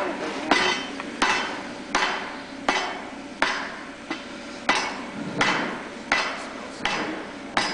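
Hammer blows on a 2-inch square steel bar being forged into a horse head, struck at a steady pace of about one every 0.7 seconds, each blow with a short metallic ring.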